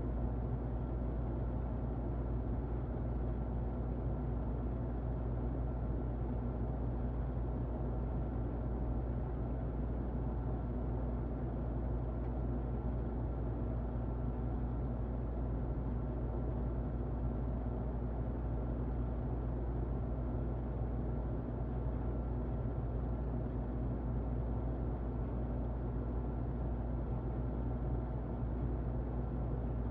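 Electric fan running steadily, heard muffled: a deep, even whooshing rumble with a faint steady hum and little high end.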